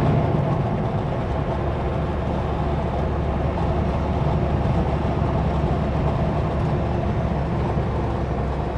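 Kenworth W900L semi-truck running steadily at highway speed: an even diesel engine drone with road noise, with no change in pitch or load.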